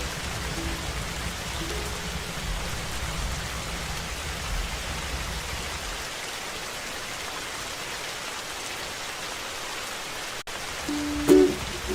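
Steady rain hiss with no music, its low rumble falling away about halfway through. Near the end, after a brief drop-out, ukulele plucking comes back in.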